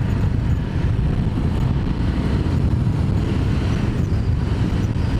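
Ducati Multistrada motorcycle running steadily at riding speed, mixed with wind and road rush on the rider's microphone.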